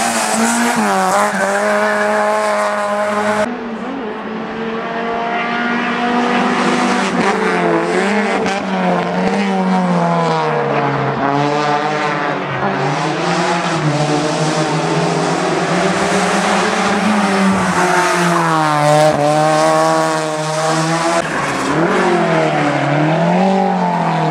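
Hillclimb race car engine revving hard, its pitch climbing and dropping over and over as it changes gear and lifts for corners. The sound changes abruptly about three and a half seconds in.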